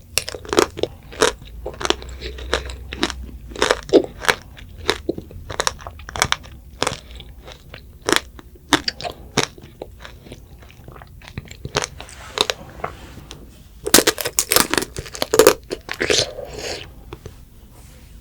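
Close-up crunching and chewing of strawberry tanghulu: the hard candied sugar shell cracks in many sharp crunches, with a dense flurry of crunches near the end.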